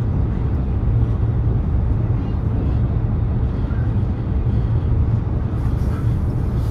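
Cabin running noise of a high-speed train at speed: a steady low rumble, with a brighter hiss joining in near the end.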